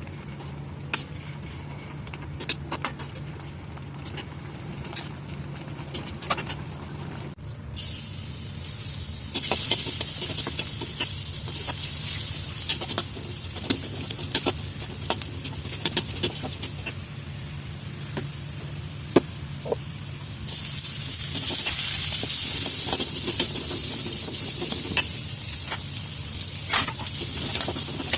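Food frying in hot oil: a sizzle sets in about a quarter of the way through and swells louder for a few seconds later on, with scattered clicks and taps of cooking utensils throughout.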